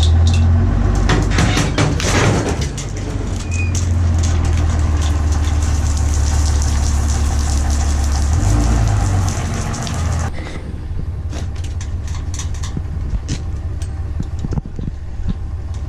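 Truck engine running, a steady low drone that drops away about ten seconds in, followed by scattered short knocks and clatter.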